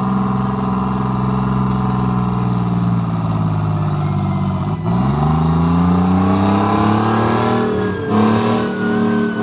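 Tractor engine running at a steady pitch, then dipping and revving up about halfway through, its pitch climbing for the next few seconds, with a brief break near the end.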